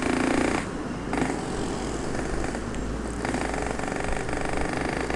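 Yamaha RX-King 135 cc single-cylinder two-stroke engine running while the bike is ridden, its note shifting several times as the throttle is worked.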